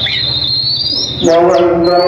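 Oriental magpie-robin singing a run of high, whistled notes with rising slurs. About a second and a quarter in, a man's voice starts a long held note of the adhan, the Islamic call to prayer, louder than the bird, which keeps singing over it.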